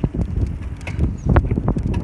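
Wind buffeting the microphone of a bicycle-mounted camera while riding, a steady low rumble with a few sharp knocks and rattles from the bike.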